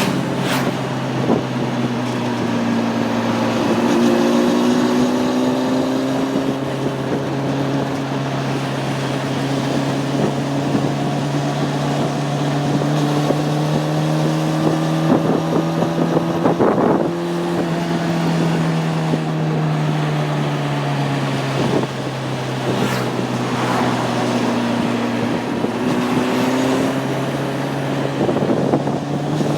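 Honda CB600F Hornet's inline-four engine running under way, its note climbing slowly for much of the time and dropping back partway through and again about three quarters of the way in, with wind noise over it.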